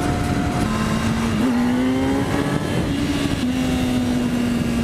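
Motorcycle engine running at road speed, its note dropping about half a second in, climbing steadily for a couple of seconds, then dropping again and holding. A steady rush of wind runs under it.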